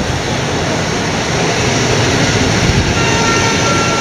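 Electric locomotive-hauled passenger train pulling out along the platform, a steady rumble of the locomotive and carriages rolling. A high steady whine joins the rumble about three seconds in.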